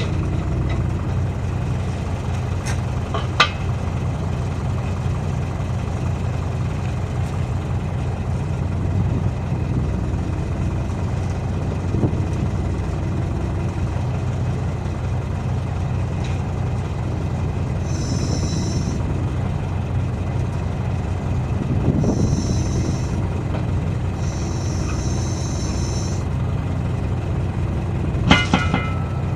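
Heavy engine idling steadily through the whole stretch, with a sharp metallic knock about three seconds in and a quick run of knocks near the end. Several short bursts of high hiss come and go in the second half.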